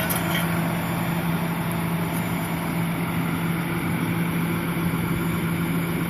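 Boom truck's engine running at a steady speed with an even, unchanging drone, keeping the crane's hydraulics powered while the boom stands extended.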